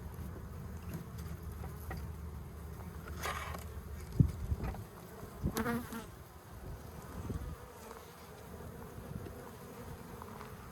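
A honeybee colony buzzing steadily as its comb is worked open, with a couple of short knocks near the middle.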